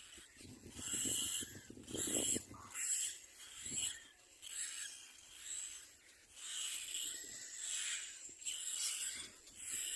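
Little black cormorants at the nest giving raspy, wheezy calls, repeated about once a second.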